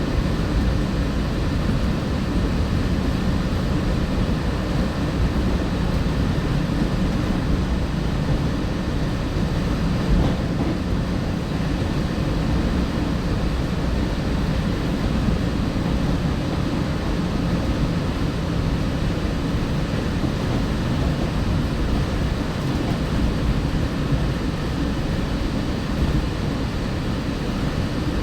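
Walt Disney World Mark VI monorail train running at speed, heard inside the passenger car: a steady low rumble of rubber tyres rolling along the concrete beamway under a faint drive hum. There is one brief louder bump about ten seconds in.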